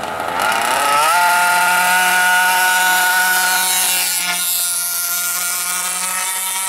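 Small two-stroke engine of an FG RC monster truck revving up over about a second, then held at high revs with a steady buzzing whine that eases slightly about four seconds in. The pitch never steps down as it would on an upshift: the two-speed gearbox is not shifting, because it is fitted backwards.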